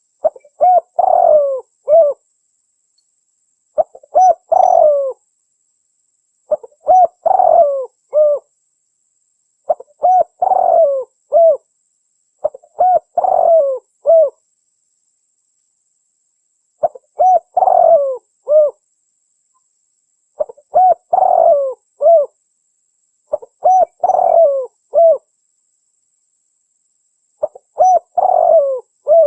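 Spotted dove (tekukur) cooing: the same short multi-note coo phrase repeats about every three seconds, with silence in between. It is a recorded lure call played to attract wild doves.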